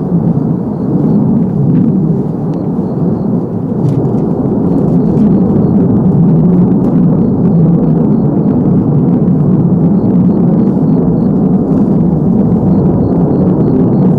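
Distant military jet engine roar, a loud, deep, steady rumble.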